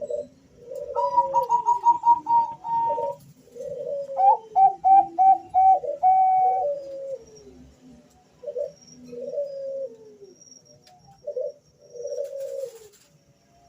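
Two male zebra doves (Bangkok perkutut) cooing back and forth: quick runs of short, higher stuttering notes over lower coos that fall in pitch, then shorter separate coo phrases in the second half.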